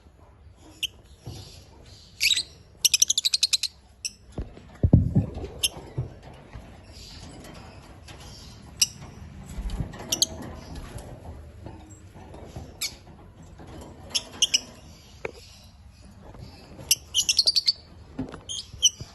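African lovebirds chirping: short, shrill, high-pitched chirps, with a quick run of chirps about three seconds in and again near the end. A brief low thud comes about five seconds in.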